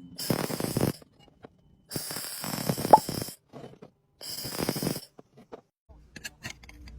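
Electric welding arc crackling in three short bursts of about a second each, followed by a few faint clicks.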